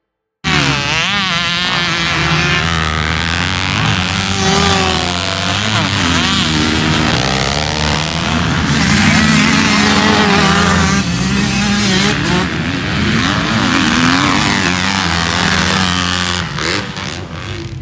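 Several motocross dirt bikes racing together, their engines revving hard, pitch rising and falling as they shift and throttle; the sound cuts in abruptly about half a second in.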